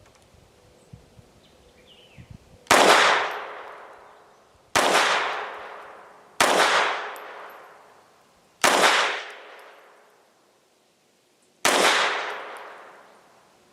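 Five shots from a FEG AP-MBP .32 ACP (7.65 mm) semi-automatic pistol, fired at uneven intervals of about two to three seconds, each followed by a long fading echo.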